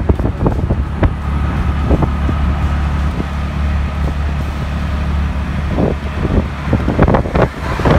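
A vehicle running with a steady low rumble and a faint steady whine above it, with a few short knocks.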